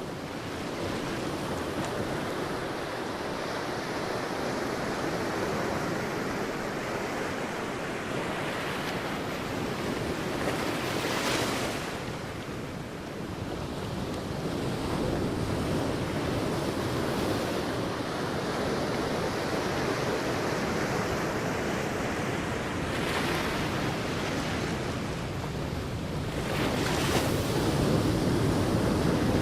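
Sea waves breaking and washing on a beach, a steady rush that swells and eases, with brighter surges of surf about 11, 23 and 27 seconds in. Wind buffets the microphone.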